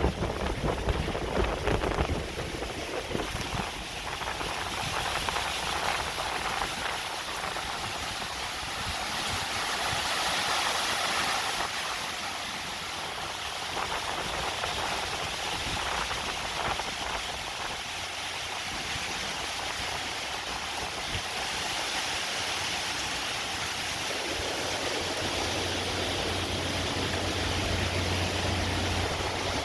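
Hurricane wind and heavy rain: a steady rushing noise that swells and eases with the gusts. A low hum joins in near the end.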